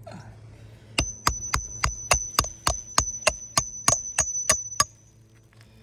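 A hammer striking the steel roofing snake (shingle ripper), driving it to cut a roofing nail under the shingle. About fourteen quick, evenly spaced blows, metal on metal with a high ring after each.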